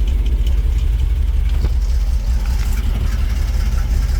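Ford 300 cubic-inch (4.9 L) inline-six idling unevenly, the rough idle the owner puts down to a bad carburetor and a big vacuum leak. A single short click sounds about one and a half seconds in.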